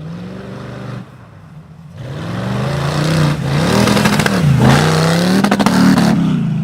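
Mud-bog truck engine revving hard in repeated surges, its pitch rising and falling several times. It gets louder about two seconds in.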